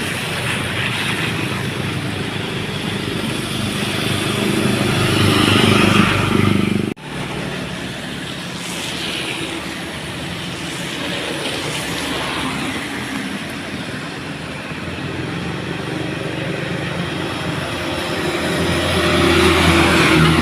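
Heavily loaded dump trucks' diesel engines running as they pass, over tyre noise on a wet road. The sound drops out briefly about seven seconds in, then goes on much the same.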